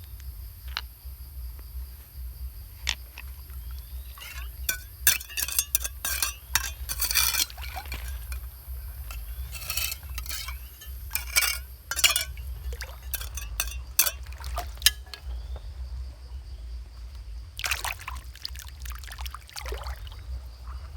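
Hard objects clinking and clicking irregularly, in clusters about four seconds in and again near the end, over a steady trill of insects.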